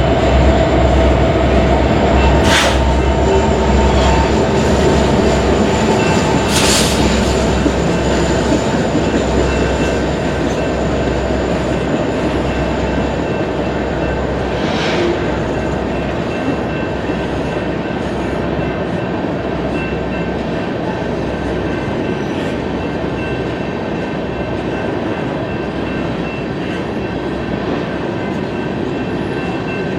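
BNSF coal train's cars rolling steadily along the rails: a continuous rumble with thin high steady tones and a few brief sharp noises, fading slowly.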